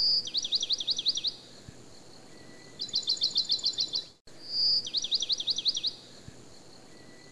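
Songbird singing: a high held whistle, then a quick run of sliding notes, a pause, then a faster trill. The same stretch of song repeats after a brief dropout about four seconds in, as a looped recording.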